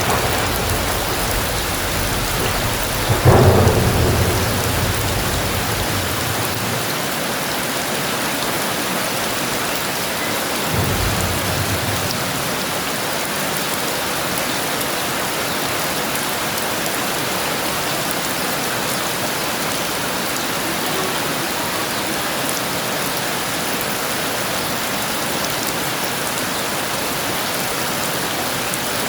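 Heavy rain falling steadily in a thunderstorm, with a sharp thunderclap about three seconds in that rumbles low for a few seconds, and a softer low roll of thunder later, around eleven seconds in.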